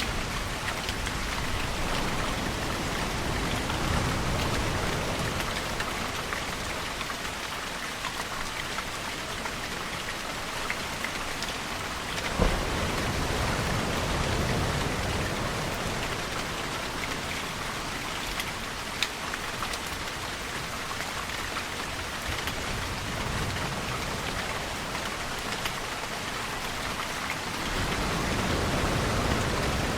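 Steady rainfall on surfaces, with slow deep swells rising and falling every several seconds beneath it and a few sharp drip-like taps, the clearest about twelve seconds in.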